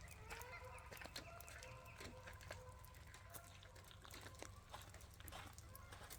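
Faint chorus of wavering animal calls, overlapping throughout, with scattered light ticks.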